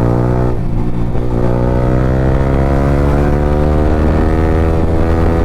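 Yamaha R15 V3's 155 cc single-cylinder engine through an Akrapovic slip-on exhaust with no dB killer, pulling under acceleration while riding. About half a second in the pitch dips as it shifts up, then climbs slowly and steadily as the revs build in the new gear.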